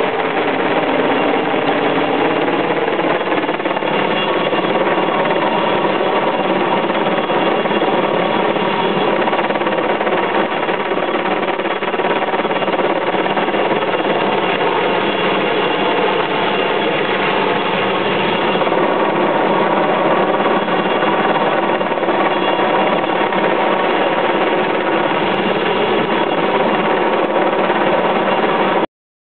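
Helicopter running steadily, a continuous mechanical drone with several held tones, cutting off abruptly near the end.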